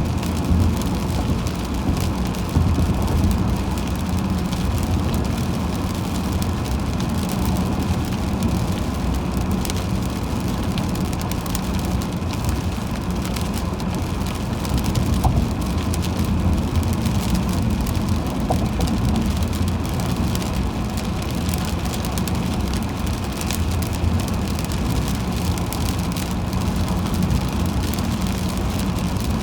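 Car driving on a highway in the rain: steady road and tyre rumble with many small ticks of raindrops hitting the car.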